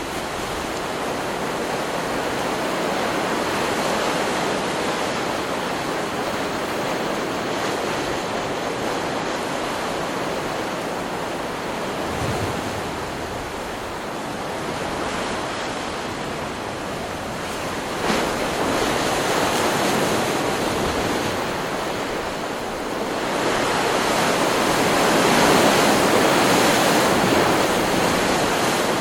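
Ocean surf from a stock beach recording: a continuous rush of breaking waves that swells and ebbs, with a sudden crash about two-thirds of the way through and the loudest surge near the end.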